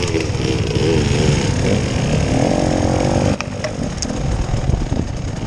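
Off-road vehicle engine revving up and down, then easing off about three seconds in.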